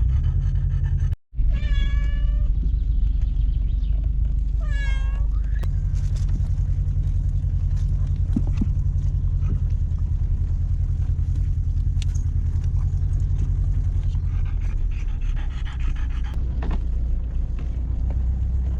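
A domestic cat meowing twice, two drawn-out calls falling in pitch, over the steady low rumble of the car driving, heard from inside the cabin.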